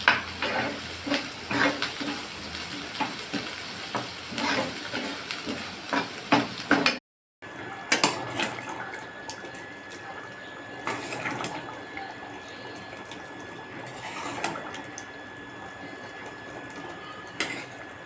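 Kitchen cooking sounds: utensils clinking and knocking against pots and dishes over a steady watery hiss, dense for the first seven seconds, then after a brief break sparser knocks over a steadier hiss.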